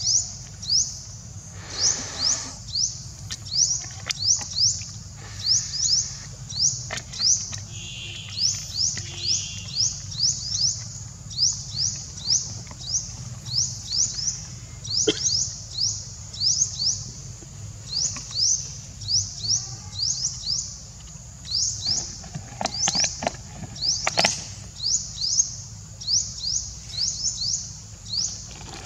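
A bird calling over and over: short, high-pitched chirps that each slide downward, about two a second, with a few faint clicks along the way.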